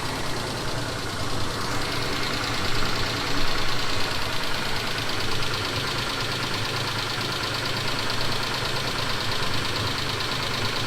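Mitsubishi 6G72 V6 engine idling cold with a rapid, even knock from the sides of the engine. The owner says it doesn't sound like the hydraulic lifters, and the knock only comes on a cold start.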